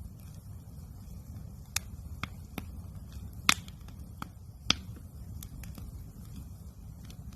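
Wood campfire crackling: scattered sharp pops and snaps at irregular intervals, two loud pops in the middle, over a low steady rumble.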